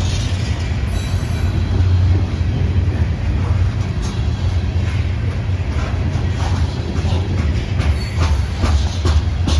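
CSX freight train rolling past with a deep, steady rumble. Through the second half, wheels click over the rail joints again and again.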